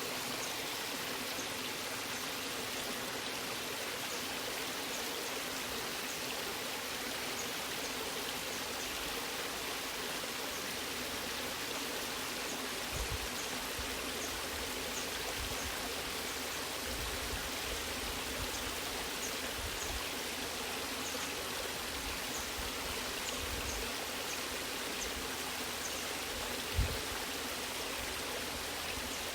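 Waterfall water rushing steadily. A few short low thuds come in partway through, the loudest near the end.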